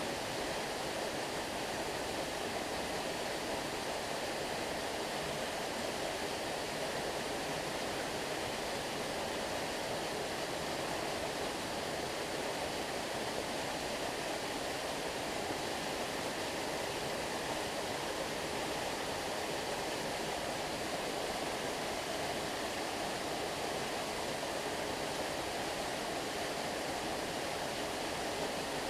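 Stream water flowing in a steady, even rush, with no breaks or changes.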